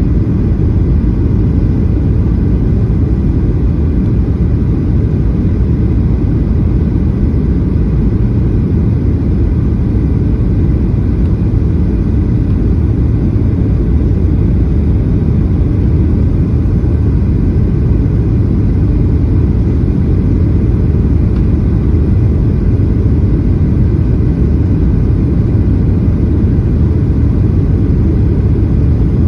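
Steady low rumble inside an airliner's cabin on its landing approach: engine and airflow noise, even throughout with no distinct thump or change.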